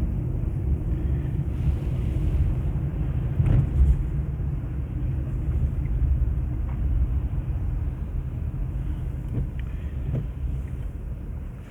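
Steady low rumble of a car's engine and tyres heard from inside the cabin while driving on snowy city streets, with a brief knock about three and a half seconds in.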